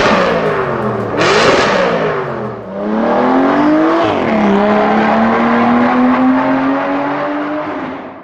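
Supercar engine revved in loud blips, then pulling away with its note climbing, dropping once at a gear change about four seconds in, and climbing again. The sound fades out near the end.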